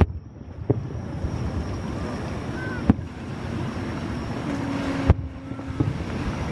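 Distant aerial firework shells bursting: about five sharp bangs, the loudest at the very start and about five seconds in, over steady background noise.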